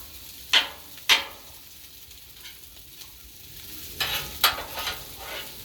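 Metal spatula scraping across a Blackstone steel griddle top over sizzling food. There are two sharp scrapes about half a second apart near the start, then a run of quicker scrapes about four seconds in.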